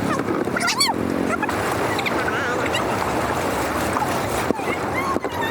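Rainwater rushing steadily through a dam drainage channel, with a quick run of high chirps about a second in and a few fainter chirps later.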